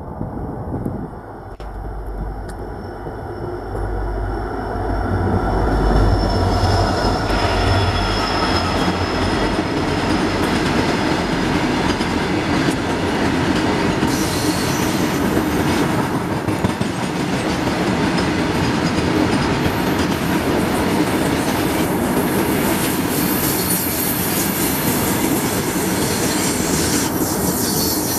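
WDG4 diesel-electric locomotive passing with a deep engine rumble for the first several seconds, followed by a long string of tank wagons rolling by with steady wheel-on-rail noise. From about halfway through, a high wheel squeal rises over the rolling noise.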